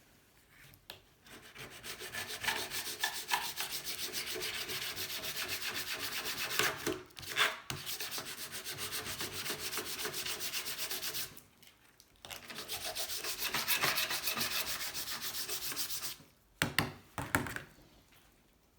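Quick, even back-and-forth rubbing strokes by hand: one long run with a brief break partway, a short pause, a second run, then a few separate knocks near the end.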